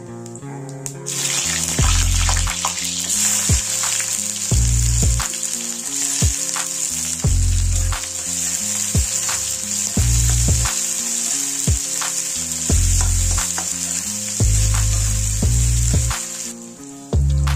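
Chopped onions sizzling steadily in hot mustard oil in a kadai, with sharp clicks of a spatula against the pan as they are stirred. The sizzle sets in about a second in and falls away near the end, under background guitar music.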